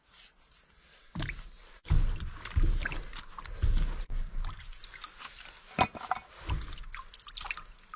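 Cured pork ribs being handled and cut with a knife: irregular knocks, clicks and scrapes, with low thuds scattered through.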